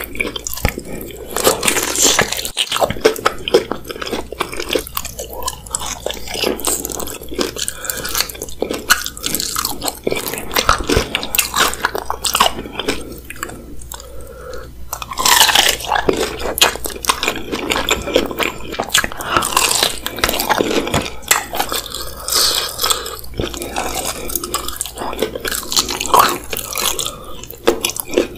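Close-miked biting and chewing of crispy breaded fried chicken dipped in spicy sauce: a continuous run of crunchy crackling bites and wet chewing.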